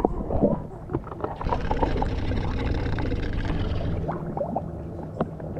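Water sloshing and gurgling with small splashes, and a steadier rushing of water from about one and a half to four seconds in.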